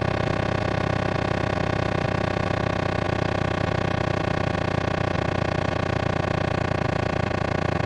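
Synthesized water-eject speaker-cleaning tone: a steady, dense buzz of many held tones sounding at once, played to vibrate water out of a phone speaker.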